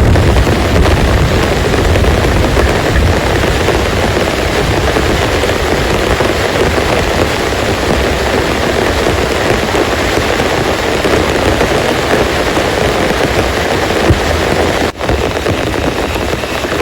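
Heavy rain pouring down steadily, with thunder rumbling low in the first few seconds. The sound drops out for an instant near the end.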